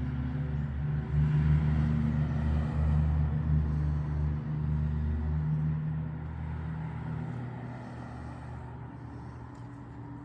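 Cessna Grand Caravan EX's turboprop engine and propeller giving a steady low drone that swells about a second in, then fades away over the last few seconds.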